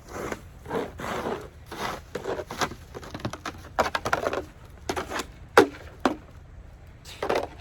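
Snow shovel scraping and crunching through light snow on a paved walk, a short stroke roughly every half second at an uneven pace.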